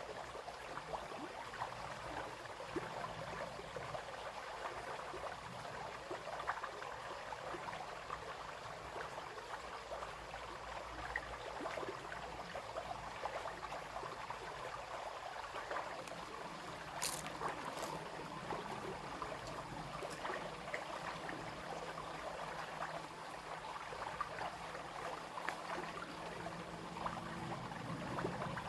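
Small brook babbling and trickling steadily over stones. Two brief sharp ticks come about two-thirds of the way in, and a faint low hum joins near the end.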